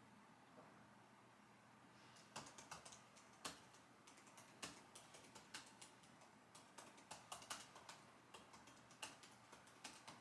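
Computer keyboard typing: irregular runs of key clicks that start about two seconds in, after a quiet stretch.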